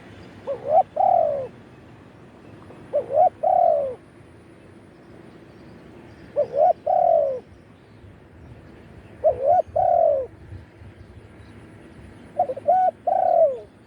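Spotted dove cooing: five phrases about three seconds apart, each a couple of short notes followed by a longer coo that falls in pitch.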